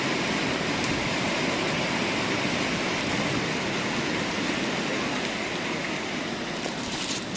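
Fast-flowing floodwater rushing with a steady, even hiss.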